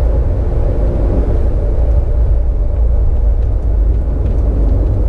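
Steady low rumble of a moving vehicle, with a faint hum above it and a few light ticks in the second half.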